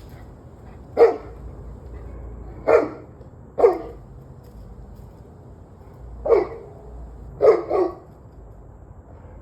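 A dog barking six times in irregular single and paired barks over a low steady background hum.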